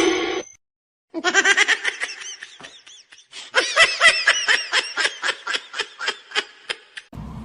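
High-pitched laughter in a rapid run of 'ha-ha' pulses: a short burst about a second in, then a longer fit of about five pulses a second that stops near the end.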